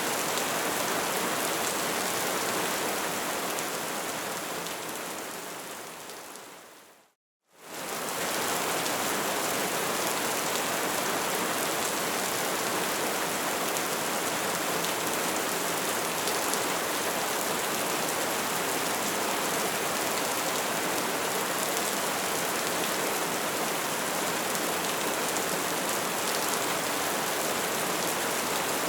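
A fire crackling, a dense and steady crackle that fades away over a few seconds to silence about seven seconds in, then quickly comes back at full level.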